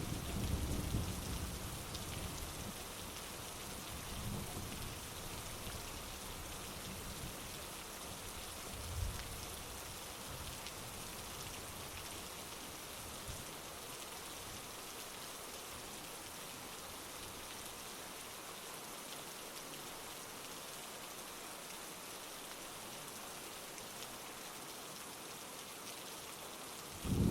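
Steady heavy rain falling. Low thunder rumbles through the first couple of seconds, and faint rumbles come again about four and nine seconds in.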